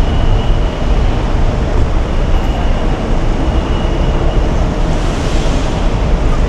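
Steady low rumble of vehicle and road noise, with no distinct events.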